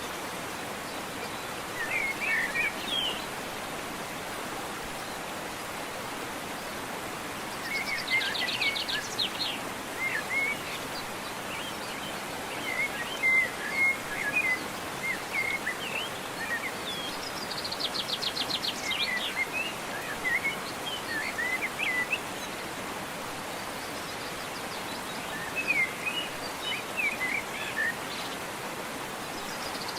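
Steady rush of a waterfall with songbirds singing over it. The birds come in bursts every few seconds: short chirping phrases and, twice, a fast trill.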